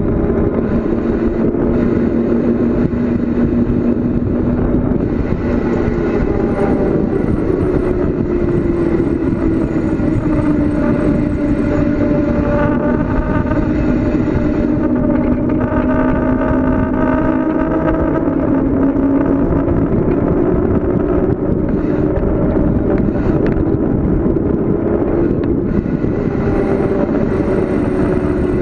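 Steady rush of wind on the microphone during a fast bicycle descent, with a humming tone that slowly drifts up and down in pitch.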